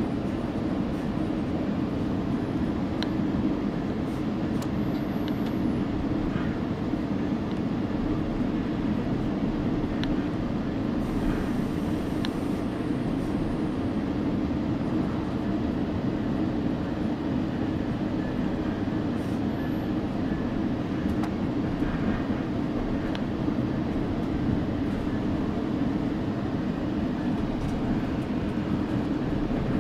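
Moving passenger train making a steady, unbroken low rumble, with a few faint ticks here and there.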